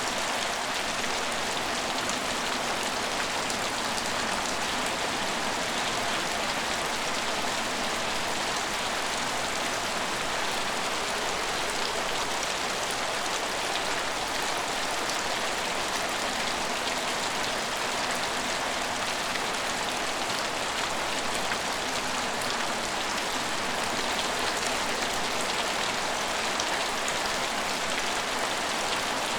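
Steady rain falling, an even hiss that holds at a constant level with no breaks.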